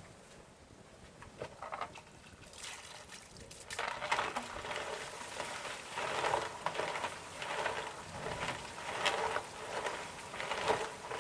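Water sloshing and gushing inside an emptied electric water-heater tank as it is rocked with a hose running into it, washing lime-scale sediment out. After a quieter start, the water surges in repeated waves about every second and a half.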